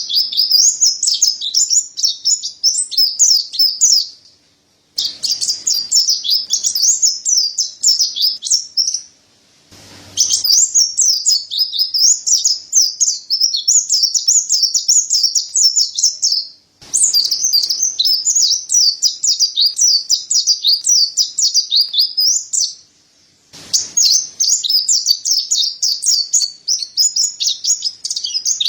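Mountain white-eye (pleci dada putih) singing a fast, high-pitched twittering song in long runs of several seconds, broken by four brief pauses.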